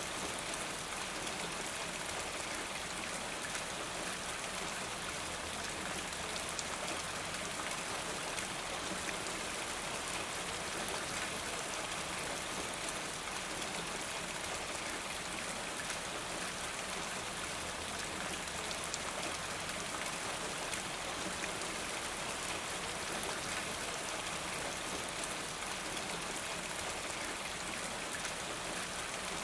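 Steady rain falling, with faint drops ticking here and there.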